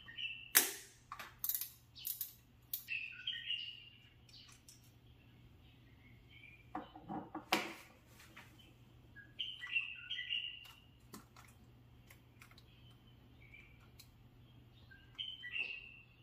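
Birds chirping in short clusters of quick notes, with scattered sharp clicks and knocks of handling, the loudest about half a second in and again about halfway through, over a faint steady low hum.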